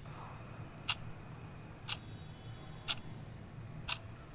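A clock ticking steadily, one tick a second, over a faint low hum.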